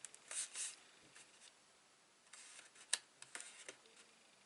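Faint rustling and scraping of card stock being handled and set down on a desk, with a sharp click about three seconds in.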